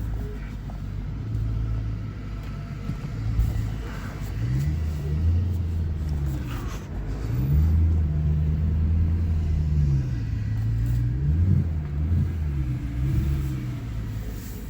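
BMW E90 M3's 4.0-litre V8 running at low speed while the car is reversed and lined up. Its note rises and falls several times under light throttle, holding higher for a few seconds in the middle.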